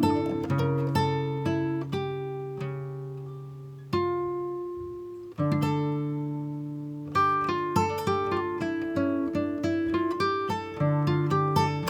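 Background music of plucked acoustic guitar: picked notes ring and fade over held bass notes, thinning out to a few ringing notes in the middle before the picking picks up again.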